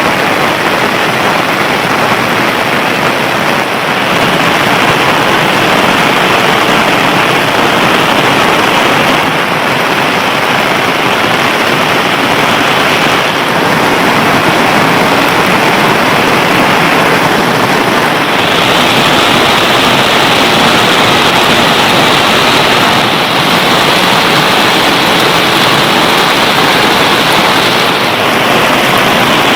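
Heavy monsoon rain pouring down in a steady, loud hiss, its tone shifting slightly a few times.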